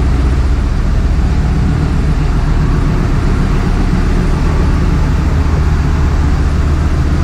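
Loud, steady drone of a ship's engine room with its engines and machinery running, with no letup.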